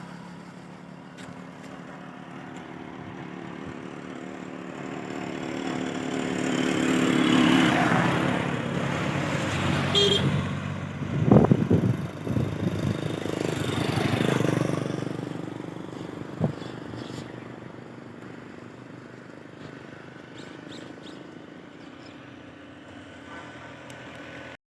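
An engine vehicle passes, growing louder to about eight seconds in and then fading away. There is a short horn toot about ten seconds in and a few knocks soon after.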